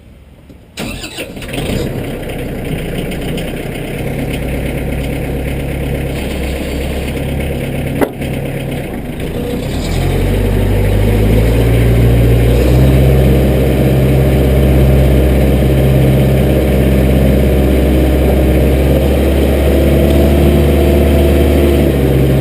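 Massey Ferguson compact tractor's diesel engine cranked and started, then running at idle. There is a sharp click about eight seconds in. Near ten seconds the engine speeds up and runs steadily at higher revs.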